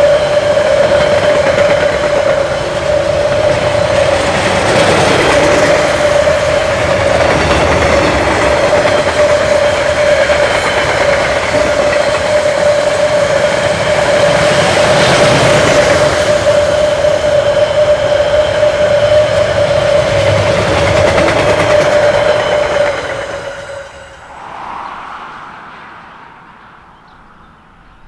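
A train passing close by, wheels clicking over the rails, with a steady whine throughout. The sound drops away suddenly near the end as the last of the train goes by, then fades.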